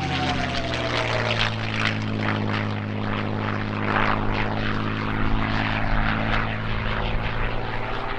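Piston-engined WW2 propeller aircraft flying past, its engine a steady loud drone.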